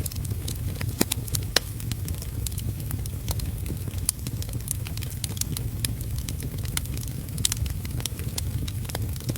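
Wood fire crackling, with frequent irregular sharp pops, over a steady low rush of heavy rain.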